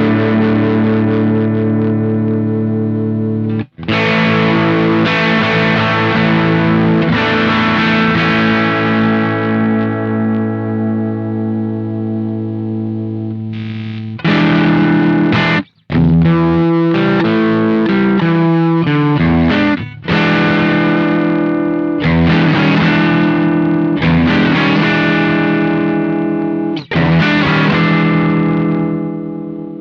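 Electric guitar played through the Witchcraft Velouria FX distortion and preamp pedal: long, sustained distorted chords ringing out, then from about halfway on a faster riff of shorter chord stabs with quick stops.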